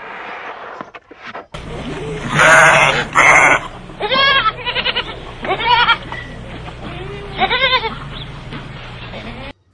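Bleating livestock: two loud, harsh cries, then about four wavering bleats spread over several seconds, over a steady low hum.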